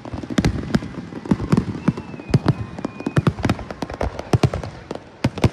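A fireworks display's finale barrage: many shells going off in quick, irregular succession, several sharp bangs and crackles a second. A faint thin whistle runs for about a second and a half near the middle.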